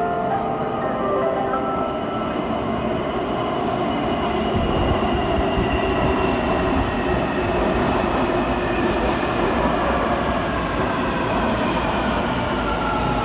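Taipei Metro C321 train running into the station: a heavy rumble of wheels on rail, with its traction motors whining in several tones that slowly fall in pitch as it slows.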